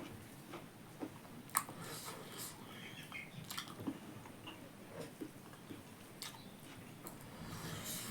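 A person chewing pork, with irregular wet smacks and clicks of the mouth and a sharper bite about one and a half seconds in.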